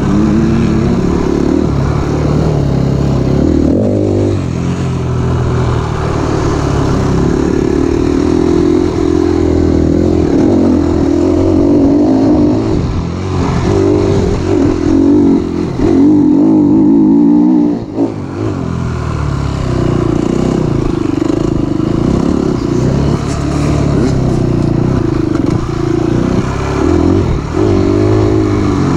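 Enduro motorcycle engine heard from on board, revving up and down with the throttle, its pitch repeatedly rising and falling as the rider accelerates and backs off. The engine note briefly drops away about eighteen seconds in.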